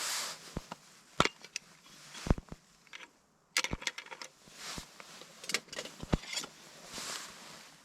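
Rustling, with scattered sharp clicks and knocks about a dozen times, irregularly spaced, as things are handled.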